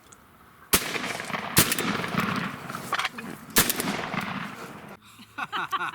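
Three shotgun shots fired at gobblers: the first about three-quarters of a second in, the second under a second later, the third about two seconds after that, each with a ringing tail.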